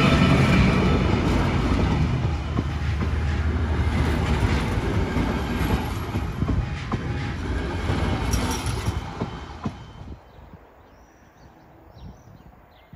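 Royal Scotsman passenger carriages passing very close, a steady deep rumble with wheels clacking over the rail joints. About ten seconds in the sound drops away to a quiet background with a few faint bird chirps.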